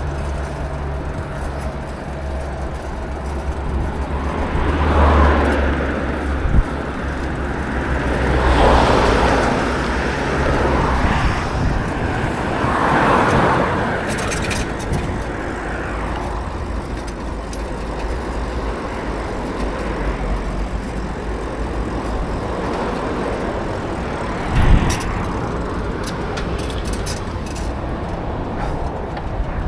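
Road traffic heard from a moving bicycle over a steady rumble of wind and road noise. Three vehicles swell past in the first half, and there is a short thump about 25 seconds in.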